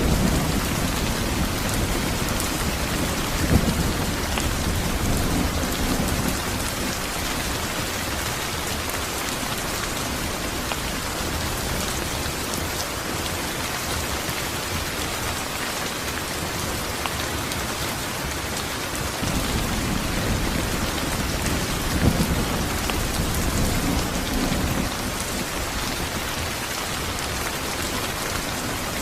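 Steady, dense rain falling on a surface. Distant thunder rumbles low beneath it twice, a few seconds in and again past the middle.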